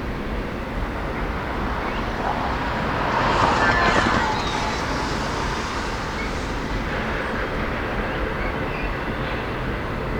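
Freight train rolling past, a steady rumble of wheels on rail that swells louder about three to four seconds in.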